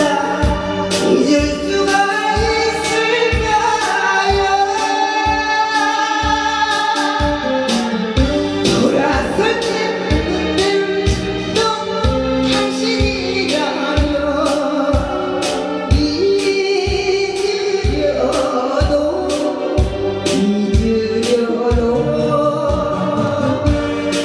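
A woman singing a song over a backing track with a steady drum beat.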